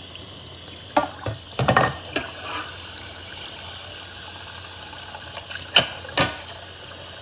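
Kitchen tap water running steadily, with a few sharp knocks and clatters, the loudest two close together near the end.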